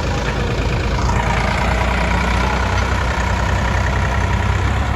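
Heavy diesel machinery running steadily at a soil-loading job, the engines of a tractor and a JCB loader, with a deep rumble that gets a little louder about a second in.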